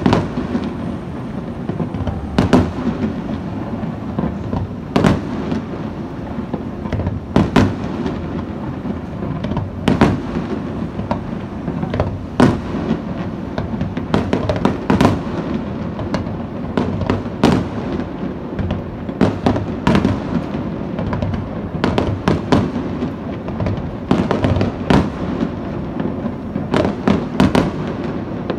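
Aerial firework shells bursting in a display: irregular sharp bangs, at times several in quick succession, over a continuous low rumble.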